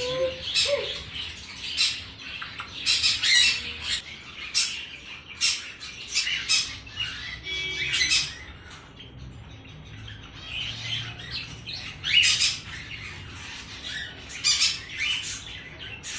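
Exotic pet birds squawking and calling in many short, irregular bursts, with a quieter stretch about nine to eleven seconds in.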